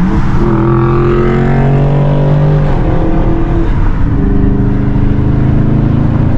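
Straight-piped Dodge Scat Pack 392 HEMI V8 exhaust under acceleration. The pitch rises, holds, drops about two and a half seconds in, then settles into a steady, lower drone.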